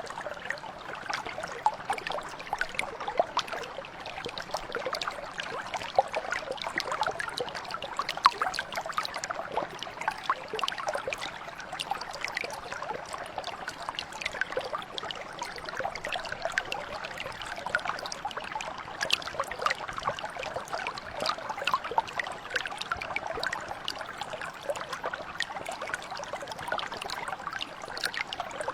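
A small stream or mountain brook flowing over stones, with a steady babble and trickle of many small splashes.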